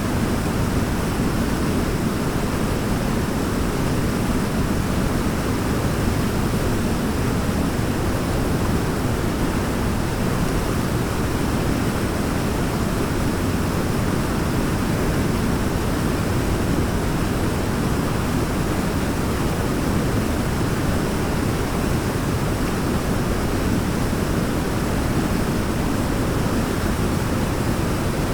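Waterfall: a steady, deep rush of falling water with no break or change.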